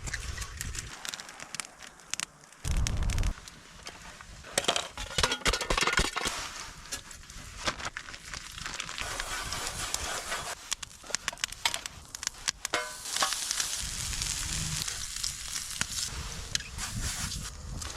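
Campfire crackling and food sizzling in a frying pan over it, with scattered clicks and knocks of cooking. A brief low rumble about three seconds in.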